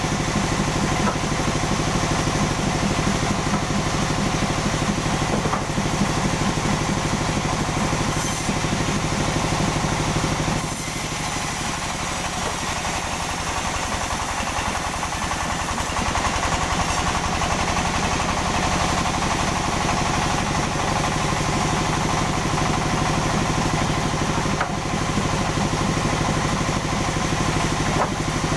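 Sawmill machinery running steadily with an engine-like drone. From about 11 to 16 seconds in the low rumble fades and a high hiss rises, then the steady drone comes back.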